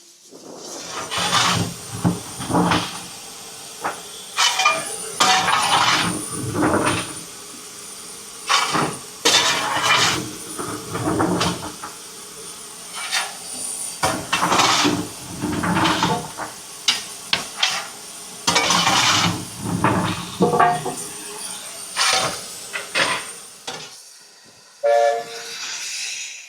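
Narrow-gauge steam locomotive working, with irregular loud puffs of exhaust and steam over a steady hiss.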